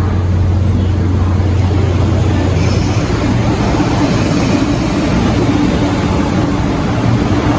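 Electric multiple-unit train of the MTR East Rail line (R-Train) running, a loud steady rumble of wheels and running gear. A strong low hum fades out about three seconds in.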